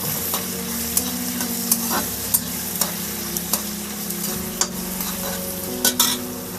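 Chopped tomatoes and onions sizzling in hot oil in a metal kadhai while a flat metal spatula stirs them, with irregular clicks and scrapes of the spatula against the pan and a few sharper scrapes near the end. The tomatoes have just gone in and are frying until soft.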